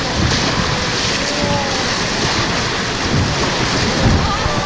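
Loud, steady rush of river water around the boat, mixed with wind buffeting the microphone.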